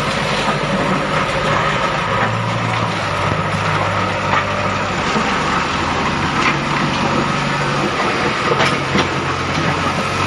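Steady vehicle-like rumble with a low engine hum and scattered clicks and knocks, as from toy trucks and a toy excavator being run.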